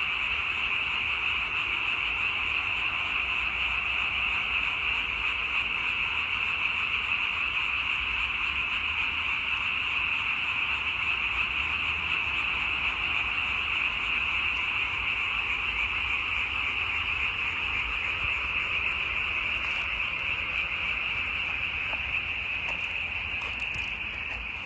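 A chorus of many frogs calling at once, blending into a steady, unbroken sound that eases slightly near the end.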